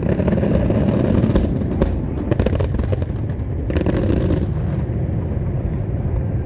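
Aerial fireworks display: rapid crackling reports and bangs over a steady low rumble, with a dense cluster of cracks about four seconds in, thinning out near the end.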